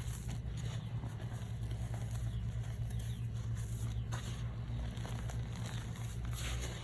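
Reformed powder blocks (pressed gym chalk or baby powder) crunching and crumbling, with soft scattered crackles, over a steady low hum.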